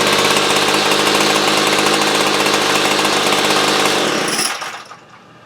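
Small two-stroke engine on a freshly carburettor-tuned department-store tool, running steadily, then shut off about four and a half seconds in.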